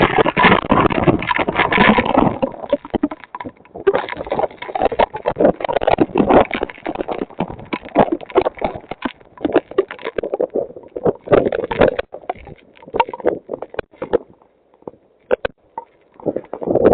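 Hurricane wind buffeting a security camera's microphone: a rough, gusting rush broken by many crackles and knocks. It dies down briefly near the end, then gusts again.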